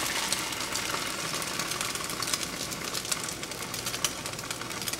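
A slice of French toast frying in a pan: a steady sizzling hiss with many small crackling pops.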